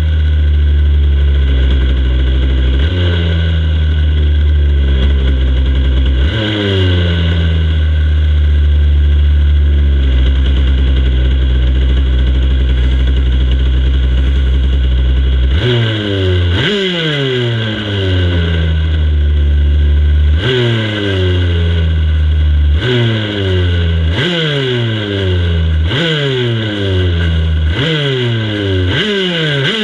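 Racing motorcycle engines running on the starting grid. A steady hold in the first half is stepped up twice. From about halfway, throttles are blipped over and over in quick revs that each fall straight back, several every few seconds.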